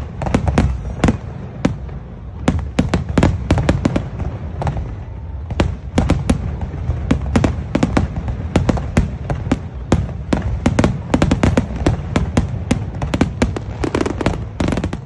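Fireworks going off in quick succession: many sharp cracks and bangs over a steady low rumble.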